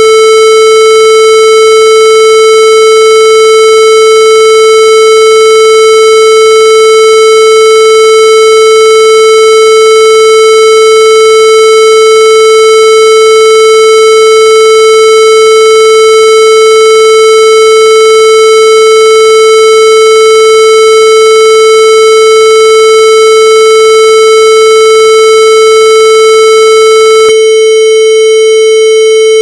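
A loud, steady electronic tone held at one pitch, buzzy and harsh with many overtones, with no wavering or pulsing.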